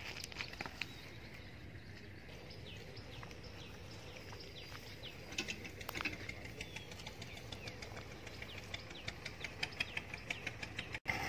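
Faint chirping of small birds: short, quick descending chirps repeated again and again over a low outdoor hiss, with scattered light clicks that grow more frequent near the end.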